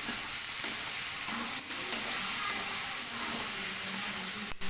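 Raw liver pieces and onions sizzling in hot oil in a kadai while a spatula stirs them through, with a brief dropout near the end.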